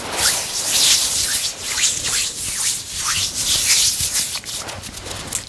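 Close, loud rubbing or scraping noise that swells and fades in uneven strokes.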